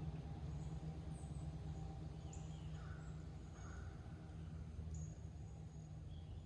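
A steady low hum, with a few faint bird chirps.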